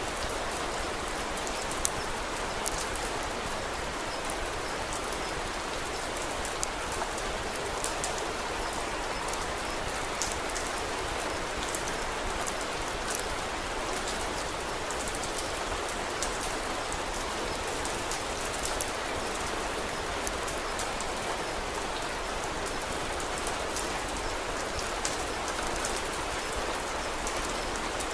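Steady rain falling, mixed with a wood fire crackling in scattered sharp pops.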